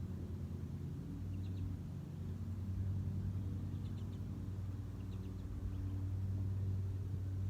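A steady low mechanical hum, with faint short bird chirps a few times over it.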